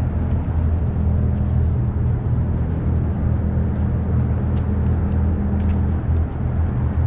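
Steady low outdoor rumble with no speech, with a few faint high ticks over it.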